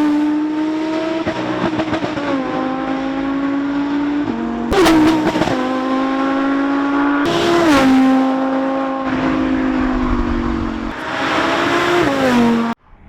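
Supercar engine and exhaust running under load, revs holding and then shifting abruptly several times with gear changes, with a sharp crack from the exhaust at two of the shifts. The sound cuts off suddenly near the end.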